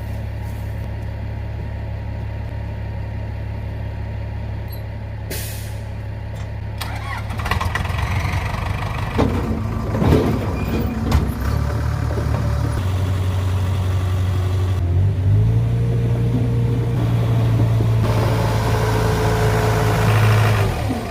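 Komatsu bulldozer's diesel engine running as the dozer drives off a lowboy trailer, with a cluster of knocks and clanks near the middle. About three-quarters of the way through, the engine steps up to a higher, steady pitch, then drops just at the end.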